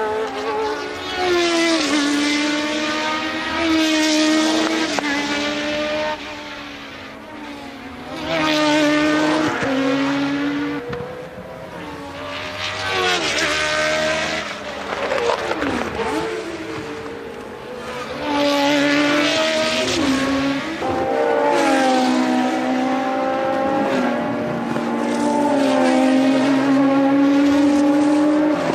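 Formula One car engines from 1982 revving high and changing gear, the pitch climbing and stepping down with each shift, with more than one car heard at once at times. Around the middle of the stretch the pitch drops steeply, as when braking and downshifting for a corner.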